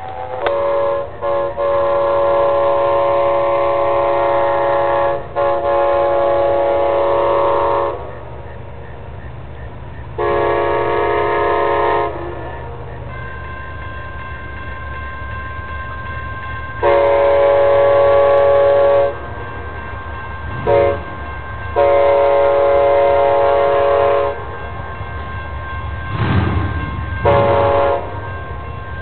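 Amtrak passenger locomotive's air horn sounding a sequence of long blasts with a short one between, a warning as the train approaches and passes through, over the growing rumble of the train.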